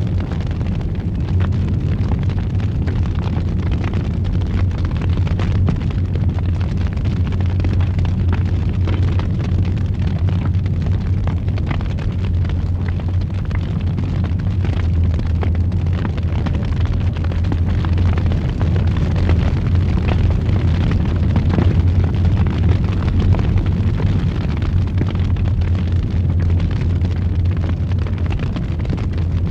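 Wood fire in a fireplace roaring with a steady low rumble, with frequent small crackles and pops throughout.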